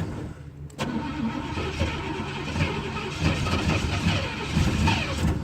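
Box Chevy Caprice being cranked on the starter in below-freezing cold without the gas pedal pumped. A click comes under a second in, then the engine turns over for about four and a half seconds without catching.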